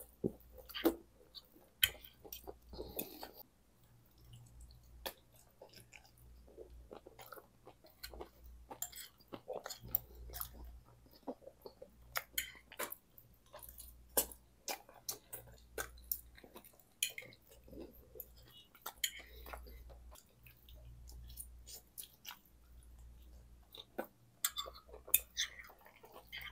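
Close-miked chewing and wet mouth sounds of someone eating cheese-sauce-covered curly fries, with many short sharp clicks. The fork now and then scrapes and clinks against the glass dish.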